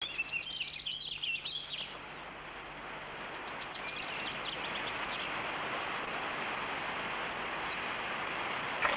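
Small birds singing in quick chirping phrases for the first two seconds, with more chirps around four to five seconds. A steady hiss builds up behind them from about three seconds in, and a single sharp knock comes near the end.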